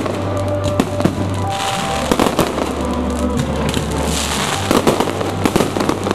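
Fireworks display: aerial shells bursting in the sky, many sharp bangs in quick succession, with music playing underneath.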